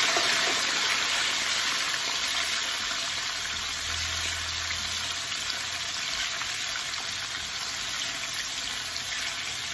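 Fresh tomato wedges, red onion and whole spices sizzling steadily in a wok of hot oil as they are stirred. The hiss is loudest at first, just after the wet tomatoes go in, and settles a little.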